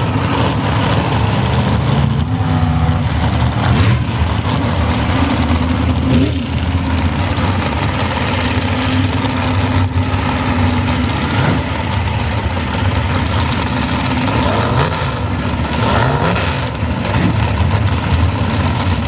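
Loud truck engines idling steadily, with several short revs that rise and fall in pitch.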